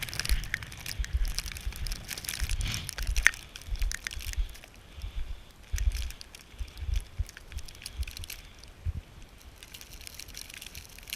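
Footsteps crunching through snow, with irregular crackles and uneven low rumbling buffets of blizzard wind on the microphone.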